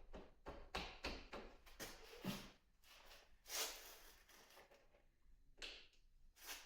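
Faint handling noises: a run of light clicks and taps, a longer scrape about halfway through, and two sharper clicks near the end.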